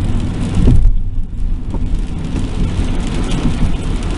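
Car interior noise while driving in rain: a steady low road and engine rumble under the hiss of rain on the car, swelling louder just before a second in.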